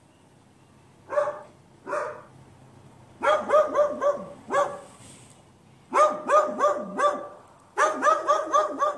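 A dog barking: two single barks, then three runs of quick barks in close succession.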